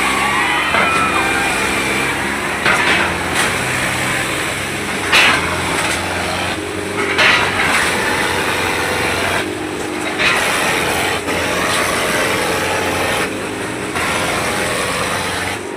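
Tractor diesel engine running hard, its pitch shifting up and down as the revs change, with voices shouting over it.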